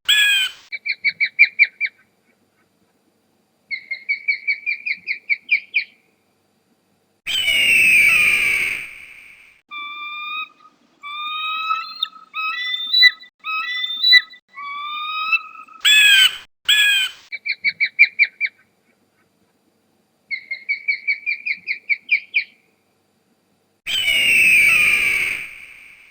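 Birds calling: rapid trilled phrases, long harsh squawking calls and a run of short whistled notes, with short silent pauses between them; the sequence of calls repeats partway through.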